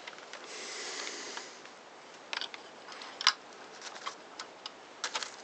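Light clicks and a soft rustle of small parts being handled during reassembly of a circular saw: a rustle in the first second and a half, then a few sharp, separate clicks.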